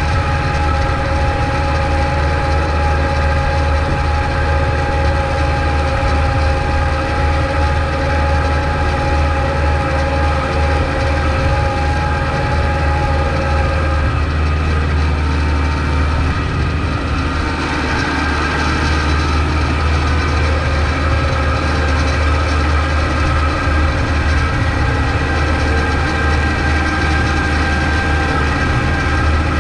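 Kubota MX5200 tractor's diesel engine running steadily while plowing snow, a strong low drone with a steady whine over it. The whine breaks off about halfway through, shifts during a short change in engine note, and returns a few seconds later.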